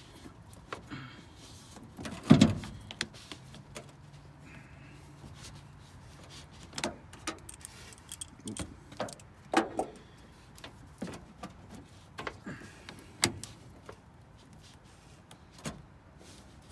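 Scattered metallic clicks and knocks of hand tools and a battery cable clamp being handled while connecting a truck battery, with one loud bang about two seconds in.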